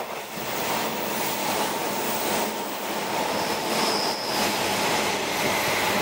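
Hanshin 8000-series electric train passing through the station at speed: a loud rushing of wheels on rail and air, with a brief high squeal about four seconds in.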